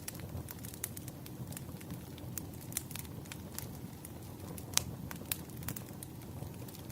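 Firewood burning: a steady low rumble of flames with irregular sharp crackles and pops, one pop a little before five seconds in standing out as the loudest.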